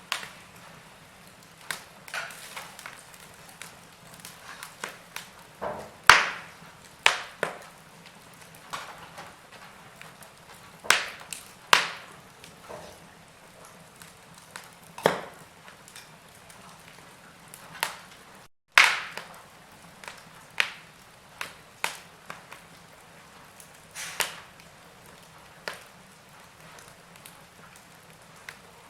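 Wood fire crackling in a fireplace: burning logs giving off irregular sharp pops and snaps, a few of them loud, over a faint steady hiss. The sound drops out completely for a moment about two-thirds of the way through.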